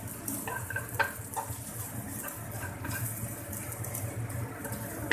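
Egg and dried shrimp sizzling in hot oil in a wok while a wooden spatula stirs and scrapes, with a few sharp knocks of the spatula against the pan, over a steady low hum.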